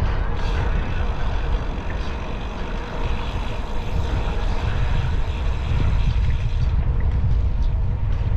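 Wind rumbling on the microphone of a camera riding on a moving bicycle: a steady, heavy low rumble with a hiss of motion noise over it.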